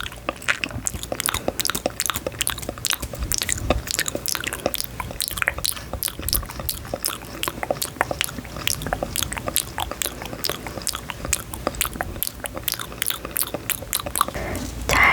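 Close-miked ASMR crackling: a dense, steady run of crisp clicks, several every second.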